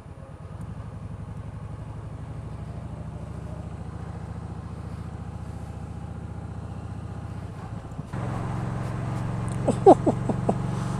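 A big bagger motorcycle's engine running with a steady low pulse; about eight seconds in it abruptly becomes louder. Near the end come several short, sharp, rising squeaks.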